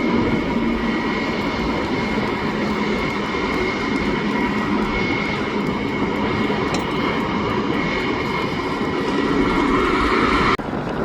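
Jet airliner engines running steadily, a broad noise with a few steady whining tones in it, cut off abruptly near the end.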